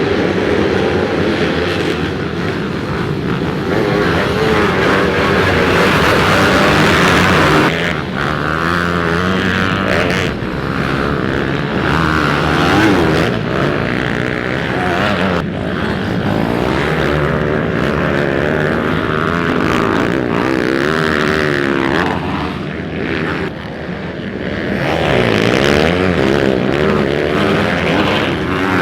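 Pit bike engines revving hard as they race, the engine note rising and falling continuously with throttle and gear changes.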